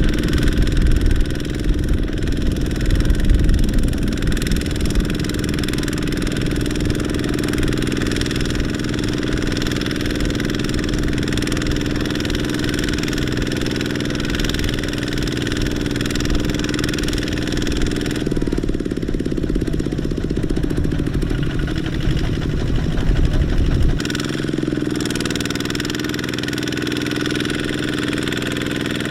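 Small Kubota tractor's diesel engine running steadily. About two-thirds of the way through, its deep low rumble drops away and the note changes.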